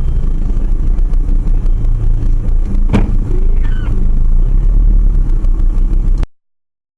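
Loud vehicle rumble of engine and road noise with a pulsing level, and a single sharp knock about three seconds in. It cuts off abruptly about six seconds in.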